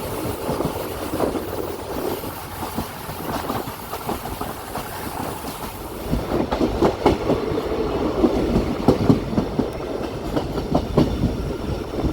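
Passenger train running on the rails, wheels clicking over rail joints. About halfway through the sound changes to a heavier low rumble with more frequent sharp knocks.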